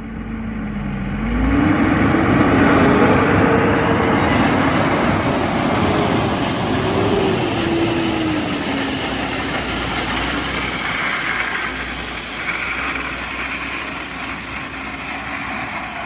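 Loaded dump truck's engine revving up about a second and a half in, then running at raised speed with its pitch wavering before easing back down, as the truck dumps and spreads a load of gravel.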